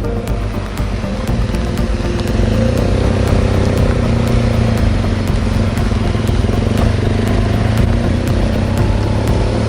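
BMW R1200GS flat-twin engine running on the move, with heavy wind rush over the microphone; it gets louder about two seconds in and then holds steady.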